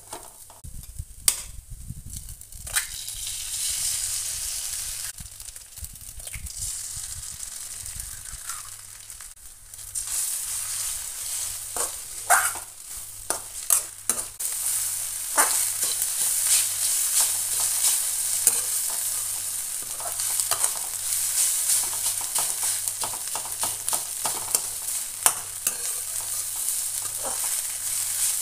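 Moringa leaves and egg frying in a metal kadai, sizzling while a spatula stirs and scrapes them, with frequent sharp clicks of the utensil against the pan. The sizzle gets louder about a third of the way in and stays so.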